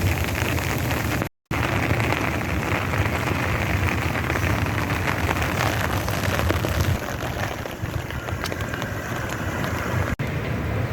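Rain falling steadily, an even hiss full of small drop ticks, over a steady low rumble of wind on the microphone. The sound drops out completely for a moment about a second in.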